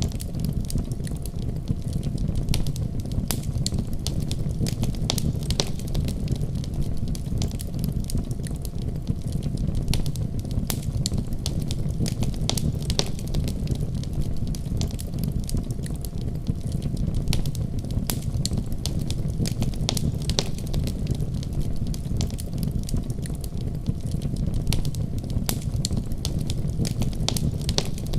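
Wood fire crackling, with many quick sharp pops over a steady low rumble.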